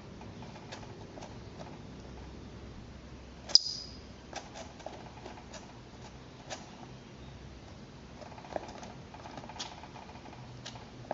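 Least weasel giving one sharp, high squeak about three and a half seconds in, with fainter short clicks and chirps scattered around it. It is the kind of call the keeper wonders may be a threat at the camera.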